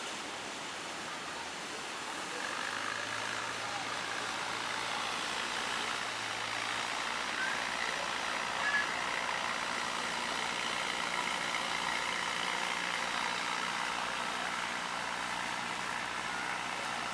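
Surf breaking in a steady wash, with a boat engine running in a low, steady drone that comes in about two and a half seconds in.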